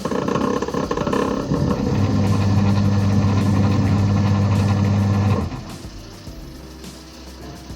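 Kenwood semi-automatic washing machine's wash motor running with a steady hum, which stops suddenly about five seconds in. The machine has a timer fault that drops the current when it turns one way.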